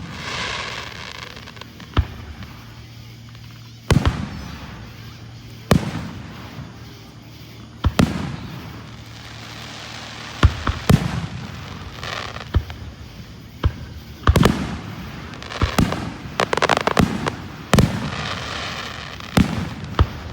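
Fireworks going off: a string of sharp booms every one to two seconds, several followed by crackling, with a cluster of rapid bangs and crackle in the second half.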